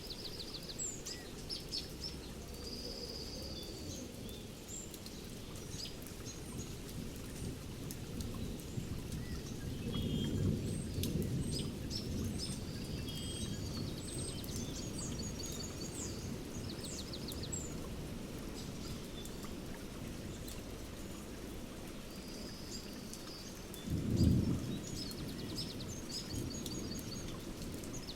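Steady rain with birds singing, from a thunderstorm-and-birdsong nature recording. A low rumble of thunder swells about ten seconds in, and a shorter, louder one comes near the end.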